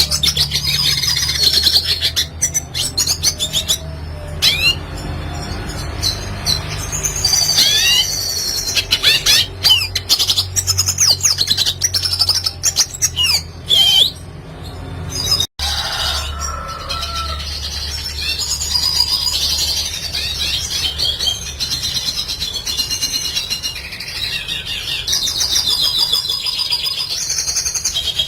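Red siskin singing: quick chirps and rising and falling whistled notes, then, after a brief break about halfway, a dense run of twittering warble.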